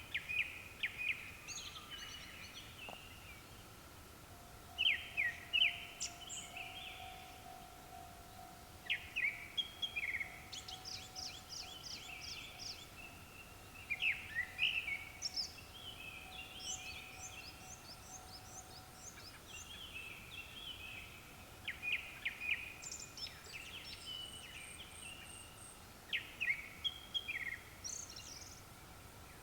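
Japanese thrush singing: varied whistled phrases, some ending in fast runs of thin high notes, repeating every few seconds. A faint steady high tone runs underneath.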